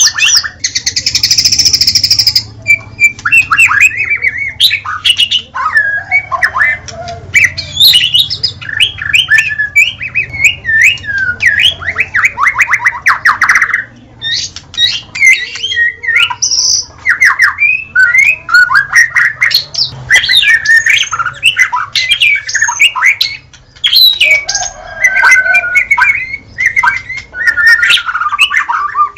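White-rumped shama (murai batu) singing continuously: a varied run of loud whistled phrases and pitch sweeps, mixed with harsh buzzy notes and, about halfway, a fast rattling trill.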